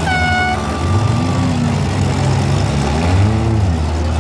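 Small four-cylinder demolition derby car engines running and revving up and down as the cars manoeuvre, over a loud running-engine din. A horn blast cuts off about half a second in.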